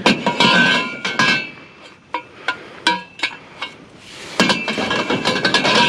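Scrap metal clanking as pieces are handled and dropped: a busy run of ringing knocks over the first second and a half, single clinks in the middle, and another busy run in the last second and a half.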